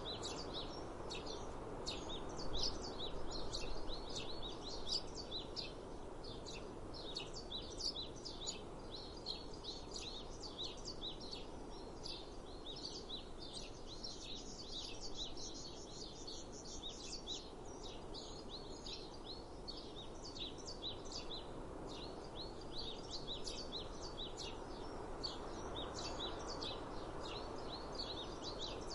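Many small birds chirping in rapid, overlapping short calls, over a steady outdoor background rush.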